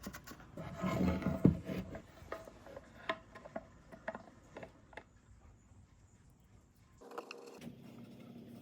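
Hand work on wood: rubbing and scraping, loudest about a second in, with scattered light taps and clicks. About seven seconds in the sound changes abruptly to a low steady hum.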